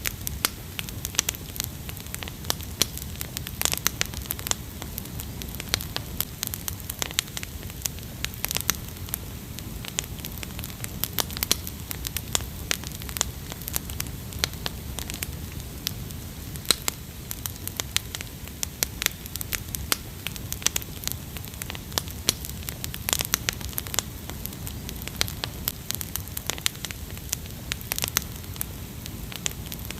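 Wood fire crackling: a dense run of irregular sharp pops and snaps over a steady low rumble.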